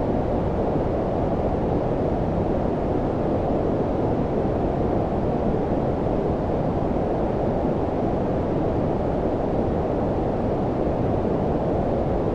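Steady low-frequency noise of the brown-noise kind: a deep, even hiss weighted toward the bass, with no change in level or character.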